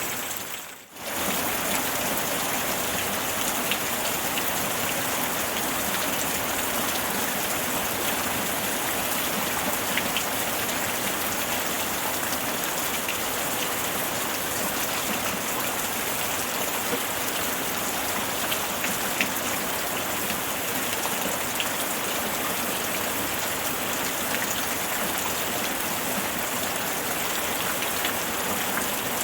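Steady rainfall: a dense, even hiss with scattered single drop ticks. The sound dips out briefly about a second in, then carries on unchanged.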